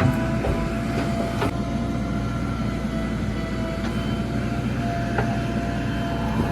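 JCB 3DX backhoe loader's diesel engine running steadily under work, with a steady high whine above the rumble and a few faint clanks.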